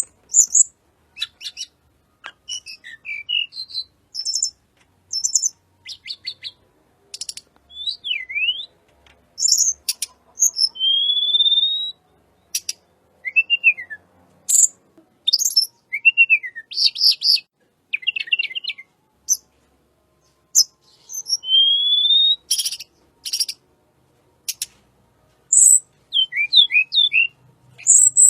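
A sulingan gunung (tledekan gunung) songbird singing a varied, full song: short high whistles, rising and falling slurred notes and quick chattering trills, with brief pauses between phrases.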